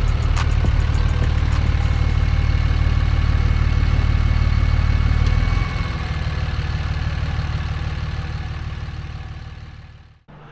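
Cummins-diesel-swapped Ram 1500 pickup's engine running with a steady low hum; it drops in level about halfway through and then fades out.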